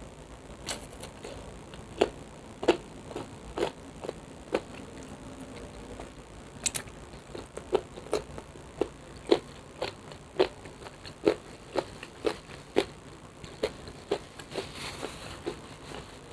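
Close-miked eating: chewing with a string of sharp crunches and clicks, irregularly about one or two a second, some much louder than others.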